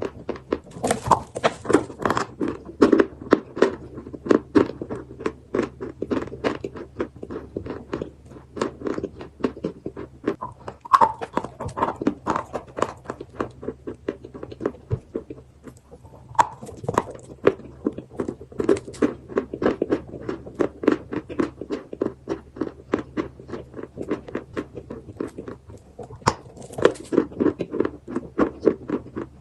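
Chalk being bitten and chewed close to the microphone: a steady run of crisp crunches and clicks, easing off briefly now and then.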